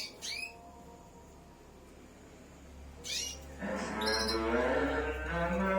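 Canary giving short, high, downward-sweeping chirps: two at the start and one about three seconds in. From about three and a half seconds in, a voice singing or chanting over background music takes over and is the loudest sound.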